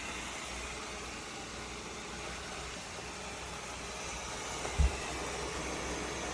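Robot vacuum running with a steady whirring hiss, and one short low thump a little under five seconds in.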